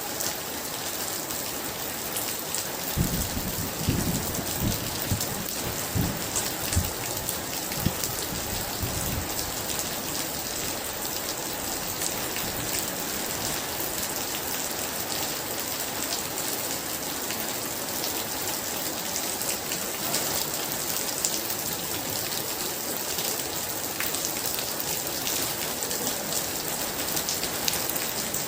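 Very heavy rain falling steadily, with a roll of thunder rumbling from about three seconds in to about nine seconds in.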